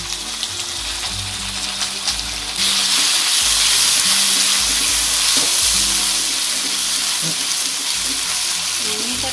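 Chilli sambal with shallots and garlic sizzling in hot oil in a wok, stirred with a metal spatula. The sizzle gets louder about two and a half seconds in and holds steady.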